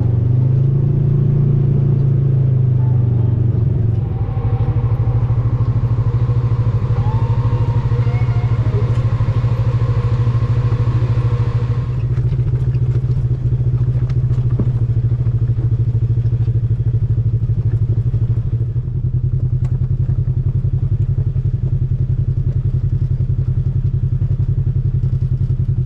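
Side-by-side UTV engine running at a steady, even pitch while driving, with clatter and knocks from the vehicle over rough trail. An added hiss joins in from about 4 to 12 seconds in.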